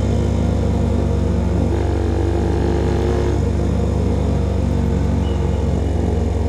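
Motorcycle engine of a CFMOTO Papio SS, heard through a KO Lightning slip-on exhaust, running steadily at part throttle under way. It makes a steady low drone, and its note shifts slightly about three seconds in.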